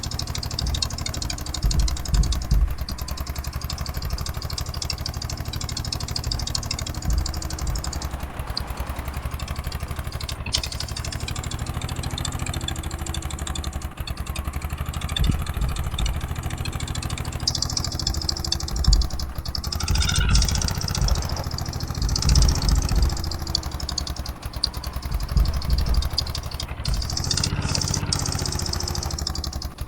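Eicher 241 tractor's single-cylinder diesel engine running steadily with a clattering beat, with a few louder low surges about two-thirds of the way through.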